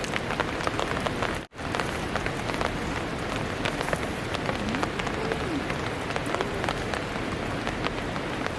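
Heavy rain falling, a dense steady patter of drops, cut off for an instant about a second and a half in.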